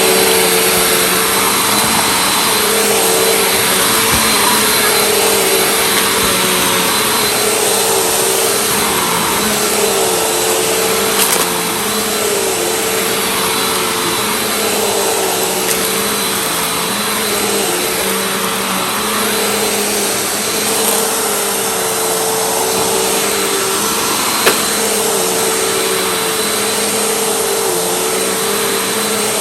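Household vacuum cleaner running steadily over the floor, its motor tone dipping briefly about every two seconds as it is pushed and pulled, with a small click about three-quarters of the way through.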